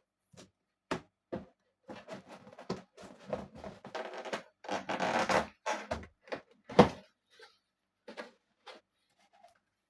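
Cardboard box and its packaging being opened and handled: a run of rustles, scrapes and knocks, busiest in the middle, with a sharp snap about seven seconds in.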